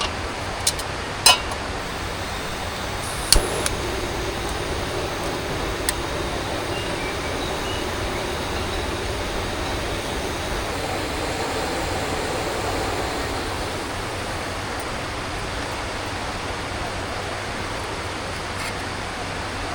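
Steady rushing of a river flowing, with a few sharp clicks or knocks in the first few seconds.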